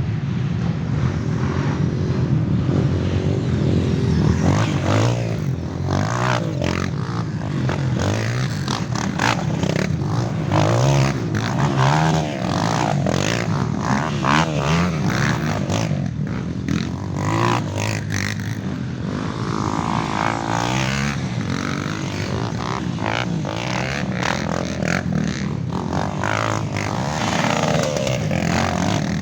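Several off-road dirt bikes running and revving, their engine notes overlapping and rising and falling as they pass, with scattered sharp clicks and clatter.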